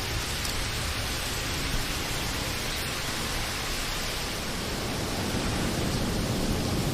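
Steady rain falling, an even hiss with a low rumble underneath that grows slightly louder near the end.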